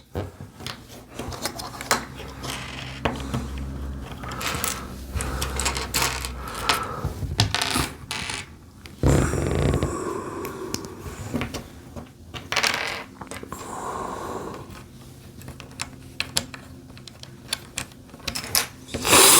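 Small plastic LEGO pieces clicking and rattling as they are handled and pressed together, with many sharp taps scattered throughout and a louder, noisier burst about nine seconds in.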